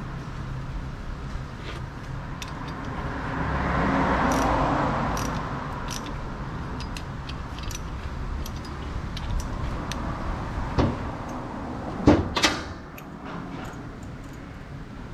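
Scattered light metallic clicks and clinks, with two louder knocks close together about twelve seconds in, over a low steady background noise that swells and fades around four seconds in.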